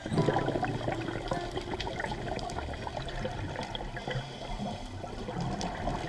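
Rushing, splashing water with a scatter of small ticks and crackles, starting suddenly and holding at an even level.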